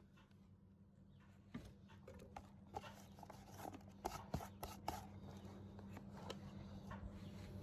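Faint steady electrical hum with scattered light clicks and knocks from handling metal and tools. No welding arc is struck.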